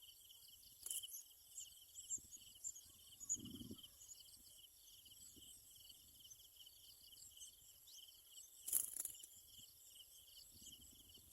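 Insects chirping in a fast, steady pulsing trill, with a thin high buzz above it. Two short sharp clicks come about a second in and again near nine seconds, and a soft low thud about three and a half seconds in.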